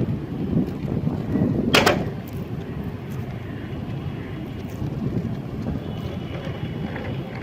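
Knife cutting and scraping a bar of soap: a steady low rustle with one sharp crack a little under two seconds in.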